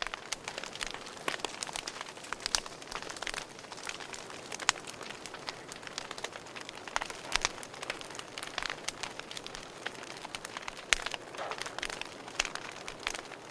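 Wood fire burning in a fireplace: a steady soft hiss with frequent sharp, irregular crackles and pops from the burning logs.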